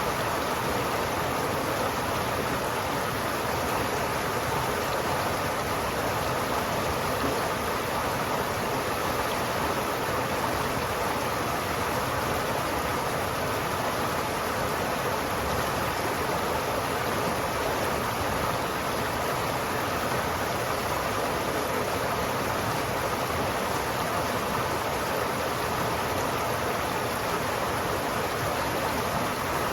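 River water flowing steadily: an even, unbroken rushing with no splashes or breaks.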